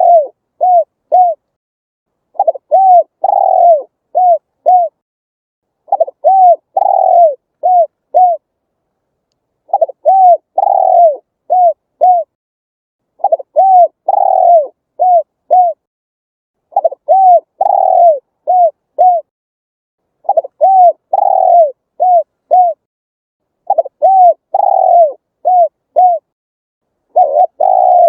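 Spotted dove cooing its song: a phrase of five or six low, arched coos that repeats about every three and a half seconds, with silence between phrases.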